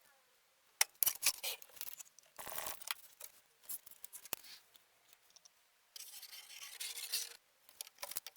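Hand work scraping and rubbing on the metal of a knife blade: short scraping strokes with scattered clicks and taps, and two longer rubbing stretches, one near the middle and one about six seconds in.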